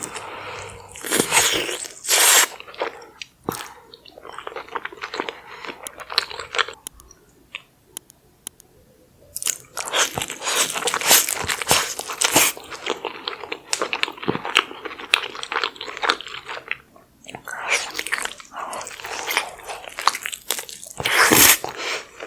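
Close-miked eating of a saucy seafood boil: crunchy bites and wet chewing in dense crackling runs, with a short lull in the middle.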